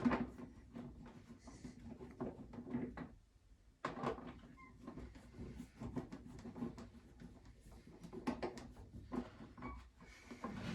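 Hand tools and screws clicking and knocking at irregular intervals as screws are driven back into the motorcycle's plastic panels, with a short lull a little over a third of the way through.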